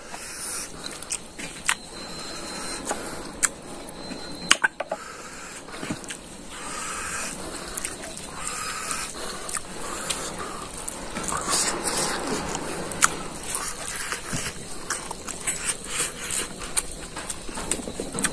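Close-up mouth sounds of a person eating rice and beef curry: chewing and lip-smacking, with scattered small clicks and short breathy hisses.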